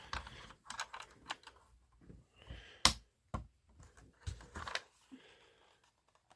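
Hard plastic toy parts being handled and snapped into place: a Playmobil roll-bar and light assembly pressed into holes in a truck bed, giving a string of sharp clicks, the loudest about three seconds in.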